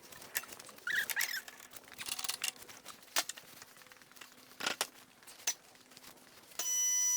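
Scattered light clicks and knocks of handling in a workshop, then near the end a steady electronic beep tone starts and holds.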